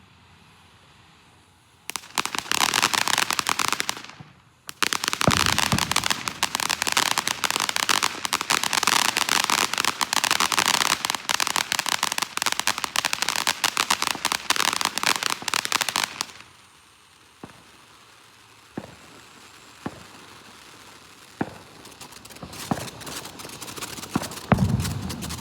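Consumer fireworks crackling. A burst of rapid, dense pops starts about two seconds in. After a short break comes a long run of rapid crackling pops that cuts off abruptly, then scattered single pops and a louder, deeper pop near the end.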